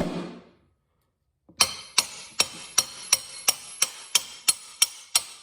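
Hammer blows on a metal part of a motorcycle's rear wheel assembly, driving it home. One blow lands at the start, then after a second's pause comes a steady run of about a dozen ringing blows, about three a second, until the part sits flush.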